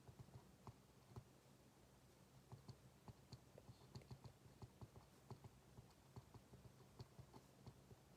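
Faint, irregular clicks and taps of desk work, a few each second, over a low steady room hum.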